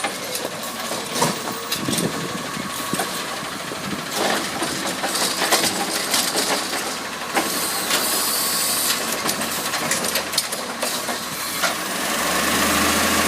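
A CNG-fuelled Autocar ACX garbage truck running, with scattered knocks and clatter throughout. A burst of hiss comes about eight seconds in, and the engine gets louder near the end.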